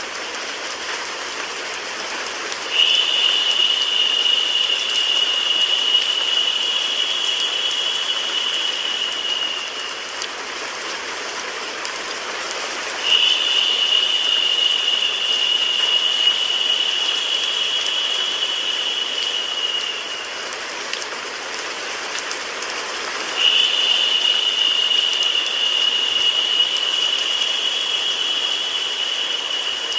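Steady rain sound blended with white noise. A high, steady whine joins it three times, about ten seconds apart, each lasting about seven seconds before fading out.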